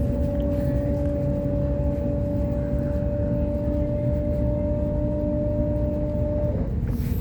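Waratah electric train's traction motors whining in a steady two-note tone over the low rumble of the wheels on the track; the whine cuts off near the end while the rumble carries on.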